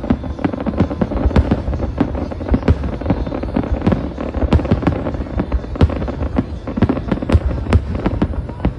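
Fireworks display: aerial shells bursting in a rapid, irregular string of bangs and crackles, several a second, over a low rumble.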